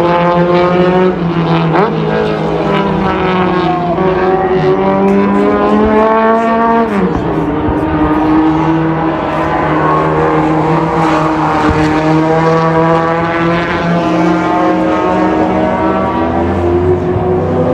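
Historic racing car engines running hard, several at once with overlapping notes rising and falling as the cars accelerate and lift. About seven seconds in, one engine note drops sharply in pitch as a car passes.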